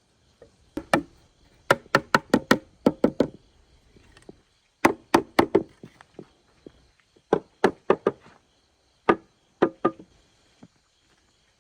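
Sharp knocks of a tool striking wood, in quick bursts of three to five blows with short pauses between.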